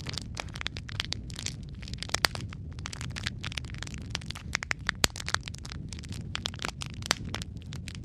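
Wood fire burning in a fireplace: logs crackling with dense, irregular snaps and pops over a low rumble of the flames, a few sharper pops standing out.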